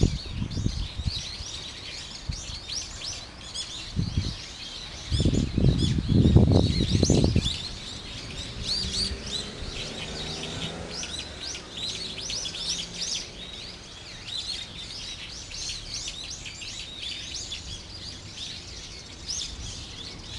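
Many small songbirds chirping and twittering, with rapid short high calls overlapping throughout. A low rumble sounds about four seconds in and again from about five to seven and a half seconds, and it is the loudest thing there.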